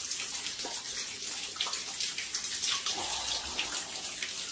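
Water pouring and splashing steadily from a leak, a continuous rushing hiss like a tap running full into a tub.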